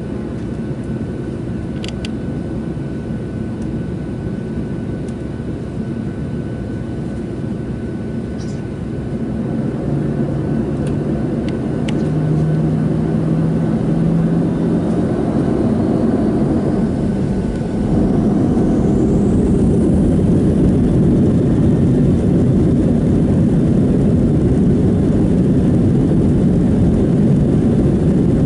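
Boeing 737-700 jet engines heard from inside the cabin: a steady rumble that grows louder, with a whine rising in pitch about halfway through as the engines spool up, then a further step up in noise. A few light clicks come early on.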